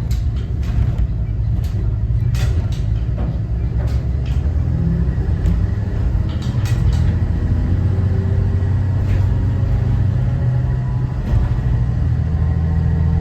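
Cummins ISB 6.7 diesel engine of a 2014 Thomas Saf-T-Liner C2 school bus running steadily under way, a loud low drone, with scattered rattles and clicks from the bus.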